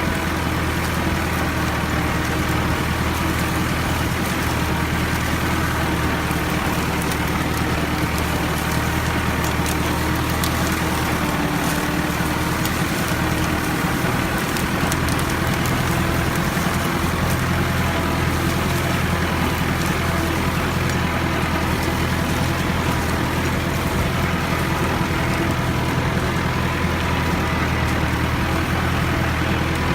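Ford tractor's diesel engine running steadily under load while pulling a three-disc plow through sticky clay soil, a deep even engine note with a noisy clatter over it.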